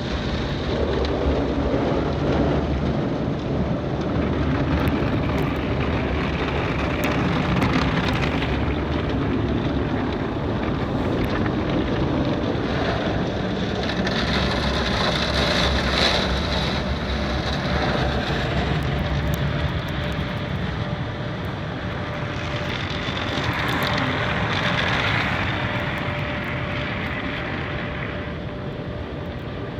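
Automatic car wash running around the car, a steady loud rushing of water spray and air blowers with a faint steady hum under it. It swells about halfway through and again a few seconds later.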